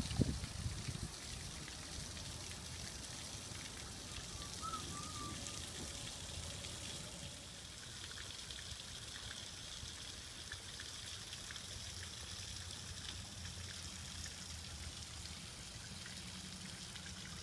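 A backyard rock waterfall running, its water splashing and trickling steadily into the pond.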